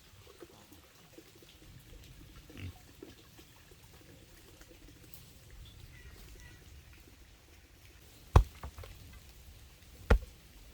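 Two sharp knocks, about two seconds apart near the end, over a faint low rustling, with a smaller knock a few seconds in.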